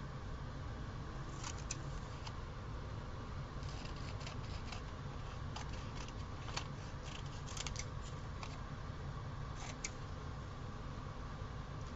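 Small scissors snipping paper, short sharp snips in a few scattered clusters over a steady low room hum.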